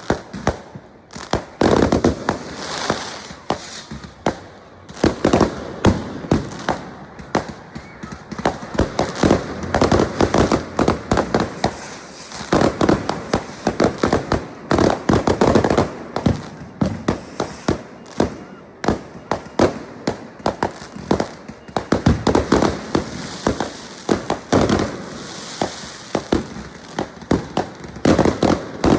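Fireworks going off in a continuous barrage: many bangs and crackles in quick, irregular succession, with no pause.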